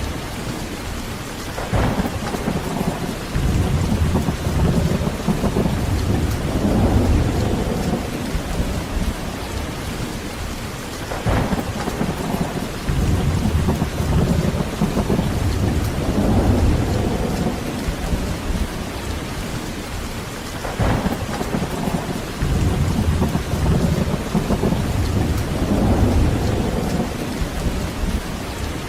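Heavy rain falling steadily through a thunderstorm, with a sharp thunder crack about every nine or ten seconds, three in all, each followed by a low rolling rumble that swells and fades over several seconds.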